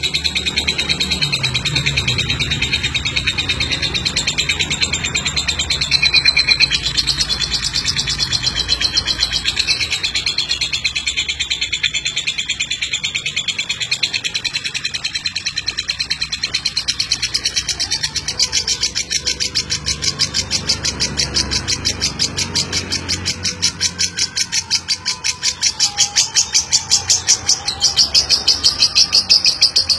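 Lovebird singing its long 'ngeklek' chatter: a fast, unbroken run of high chirps that gets louder in the second half.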